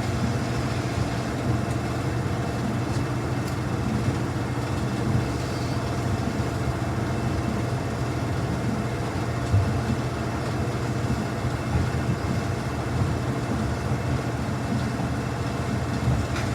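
Samsung front-loading washing machine spinning its drum at high speed on a quick-wash load of towels: a steady low hum.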